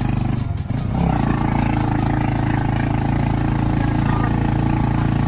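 Motorcycle engine of a tricycle running steadily under way. It dips briefly, then picks up again at a slightly different pitch about a second in.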